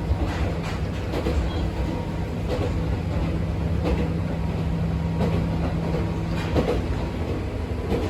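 Abukuma Express 8100 series electric train heard from inside the car while running: a steady low rumble with a constant hum, and scattered short knocks from the wheels over the track.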